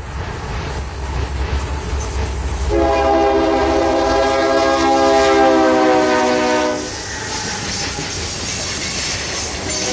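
A CSX freight train's locomotive sounding one long horn blast of about four seconds, starting about three seconds in, its chord dropping slightly in pitch as the engine passes close by. Under and after it runs the steady rumble of the train, then the rumble and wheel clatter of hopper and tank cars rolling past.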